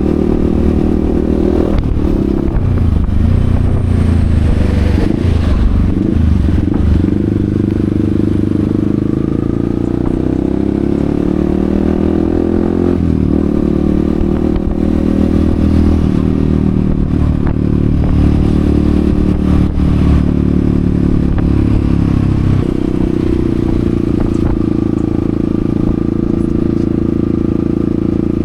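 Yamaha XSR155's single-cylinder engine running while the bike is ridden, its pitch rising and falling with the throttle.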